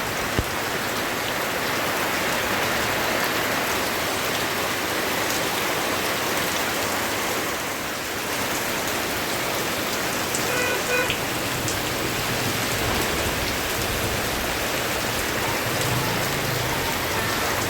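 Steady rain falling on surfaces, an even unbroken hiss of drops.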